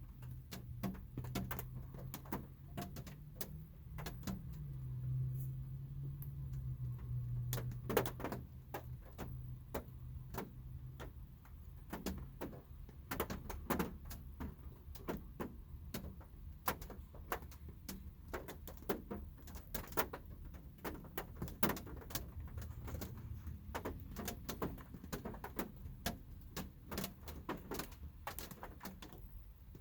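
Light rain heard from inside a car's cabin: scattered raindrops tapping on the roof and glass, irregular and several a second, some louder than others. Under the taps runs a low hum, strongest in the first dozen seconds.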